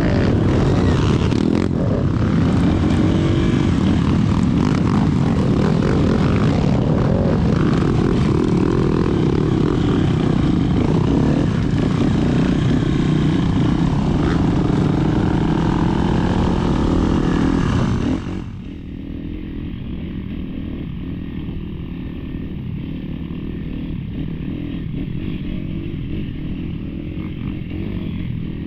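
Off-road motorcycle engine running steadily under way, with a dense, noisy low rumble. About 18 seconds in the sound suddenly becomes quieter and duller.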